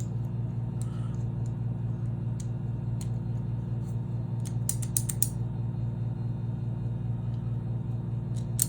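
Small mechanical clicks and clacks of a door handle and latch being worked by hand with its lock piece pulled out: a few single clicks, then a quick cluster about five seconds in. Under them runs a steady low hum.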